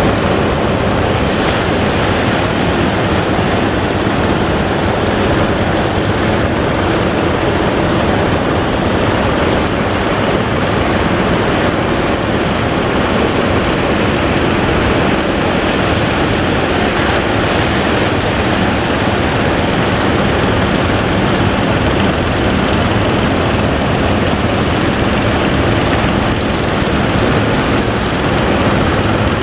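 Big waves breaking steadily on the surf, with wind rumbling on the microphone.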